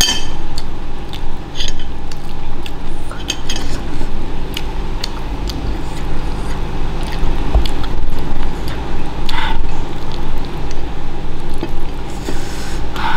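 Close-up eating sounds: a person chewing chewy beef torpedo with wet mouth sounds, and fingers and a fork scraping and lightly clicking on a ceramic plate. A steady low hum runs underneath.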